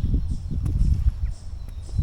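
Hiker's footsteps on a forest trail, uneven low thuds, with faint bird calls chirping high above.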